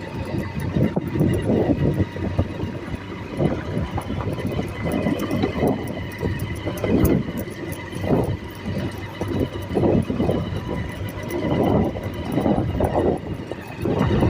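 A moving vehicle: an uneven low rumble that swells and falls every second or so, with faint steady tones above it.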